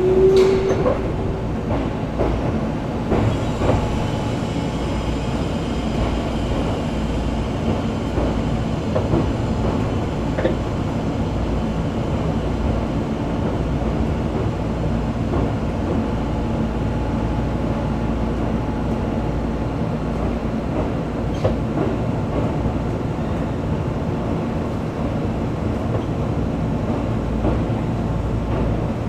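Keisei 3400-series electric train heard from inside, running slowly on depot track with a steady rumble. A rising motor whine fades out in the first second, and a few wheel clicks over rail joints come through now and then.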